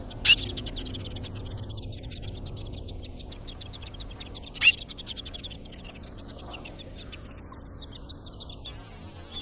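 Barn swallow chicks' high, rapid begging chatter at the nest. It comes in two bursts, about a second in and again about four and a half seconds in, each starting sharply and tapering off over a couple of seconds.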